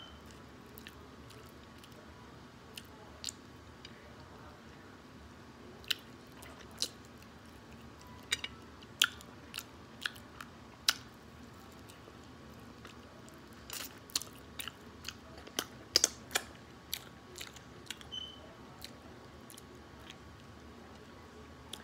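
Close mouth sounds of a person eating barbecue ribs: irregular wet chewing smacks and clicks as meat is bitten and chewed off the bone. They come most densely in the middle of the stretch.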